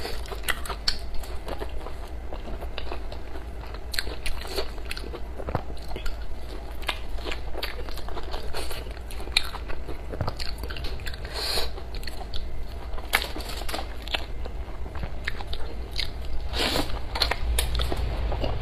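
A person chewing and biting food close to the microphone: irregular wet mouth clicks and smacks, with a few crunches.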